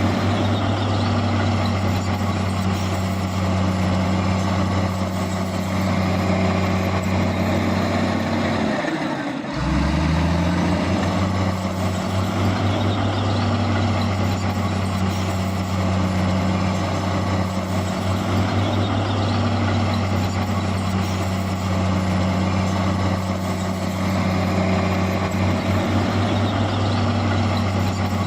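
Heavy diesel engines of a bulldozer and dump truck running steadily. About nine seconds in, the engine note dips briefly, then climbs again as an engine picks up.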